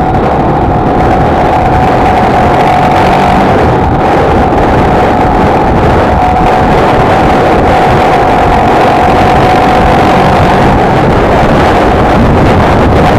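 Honda XLR125R's single-cylinder four-stroke engine running at a steady cruising speed, with heavy wind noise on the microphone and a steady high tone running through it.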